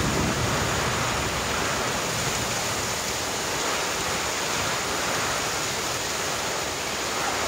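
Heavy downpour: rain pouring onto the street in a steady, even hiss.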